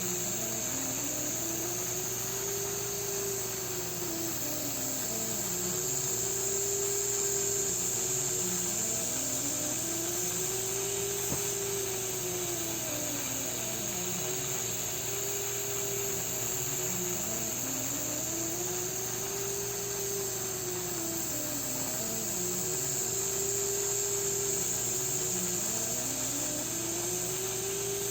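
A machine running steadily with a low hum and a tone that rises and falls smoothly about every four seconds, and a single short click about eleven seconds in.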